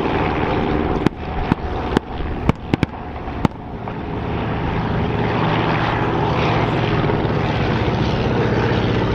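Propeller engines of replica First World War aircraft droning as they fly past. A quick series of about seven sharp cracks comes between about one and three and a half seconds in.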